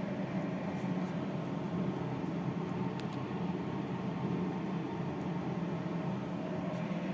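A steady mechanical hum with a hiss underneath, even throughout, with one faint click about three seconds in.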